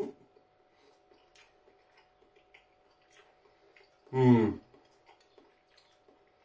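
A man chewing a mouthful of rice, with faint scattered mouth clicks, and a short hummed "mmm" about four seconds in. A faint steady hum sits underneath.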